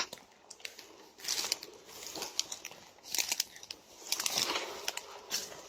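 Irregular rustling and crackling of dry vegetation, in a few short bursts, as someone pushes through brush.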